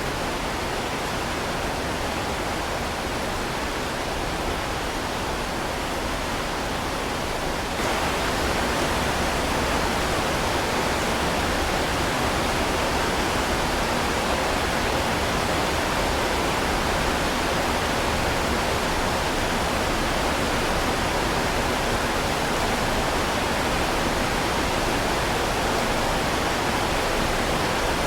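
Heavy rain falling, a steady even hiss. About eight seconds in it abruptly turns a little louder and brighter, then holds steady.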